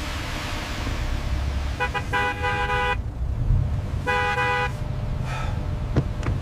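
A car horn honks twice over a steady low rumble: a blast of about a second, then a shorter one.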